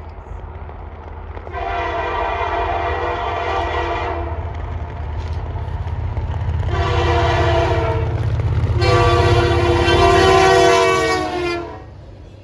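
Diesel locomotive air horn of the Canadian Pacific Holiday Train sounding three blasts: a long one, a shorter one, then a long one. The locomotive's engine rumbles underneath, growing louder as the train approaches.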